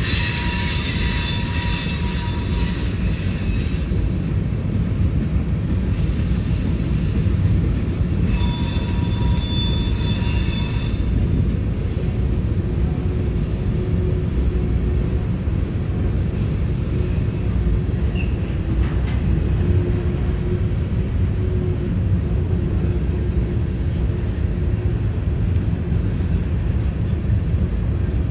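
Loaded covered hopper cars of a CSX freight train rolling past, a steady heavy rumble of steel wheels on rail. High-pitched wheel squeal sounds over it for the first few seconds and again about eight to eleven seconds in, as the wheels grind around the curve.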